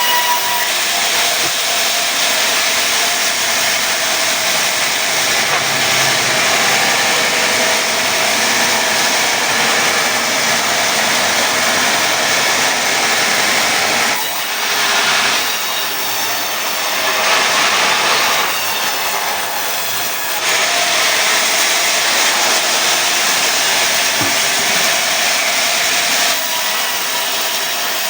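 Sawmill blade cutting through a pine log lengthwise into boards: a loud, steady sawing noise whose sound dips and shifts briefly about halfway through.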